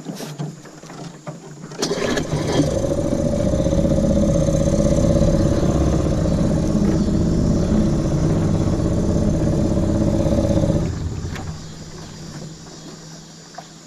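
Small outboard boat motor starting about two seconds in, then running at a steady speed, loud, until it cuts off suddenly about eleven seconds in.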